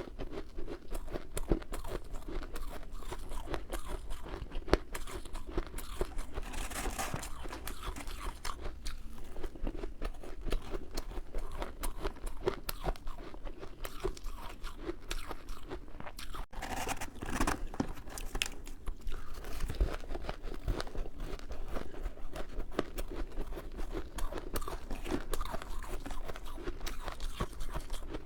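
Close-up chewing of powdery freezer frost, a dense run of soft crackly crunches that goes on without a break.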